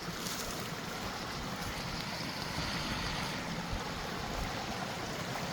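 Mountain creek water rushing, a steady even noise.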